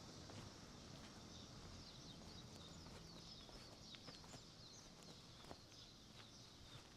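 Faint, repeated high chirping of small birds, with a few soft footsteps over a low background hum.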